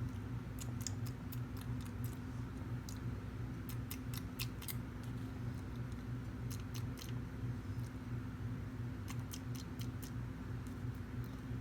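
Scattered light clicks and taps of plastic dolls and toy food being handled, singly and in small clusters every second or two, over a steady low electrical hum.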